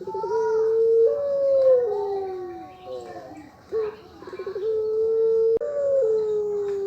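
Puter pelung dove cooing: two long coos, each opening with a quick stuttering run of notes, then a long held note that steps up and slides down in pitch.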